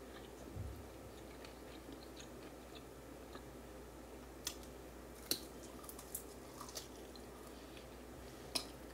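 A person chewing grilled barbecue jerk neck bone meat and gristle off the bone, faint, with a few short wet clicks and smacks scattered through the second half.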